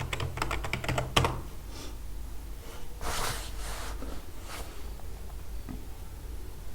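Computer keyboard typing: a quick run of key clicks in the first second or so, then a few softer, scattered noises over a steady low hum.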